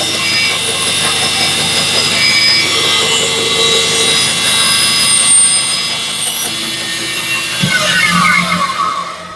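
Power saw running and cutting a wooden piece, then switched off near the end and winding down.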